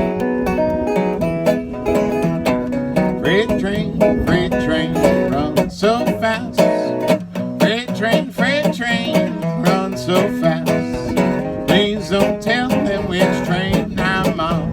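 Instrumental folk music on plucked acoustic strings: a fingerpicked guitar carrying the tune, with some notes that bend and waver in pitch.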